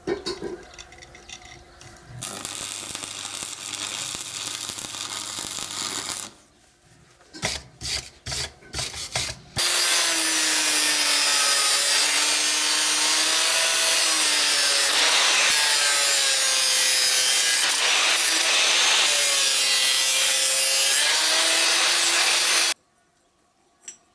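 An angle grinder grinding steel for about thirteen seconds, its whine dipping and rising as it is loaded against the metal, then cutting off sharply near the end. Before it there is a steady hiss for a few seconds and a handful of sharp knocks.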